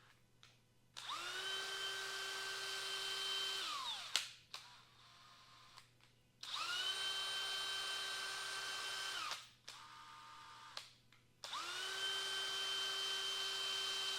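Electric drill run three times for about three seconds each: the motor spins up, holds a steady whine and winds down, with a sharp click just after each stop.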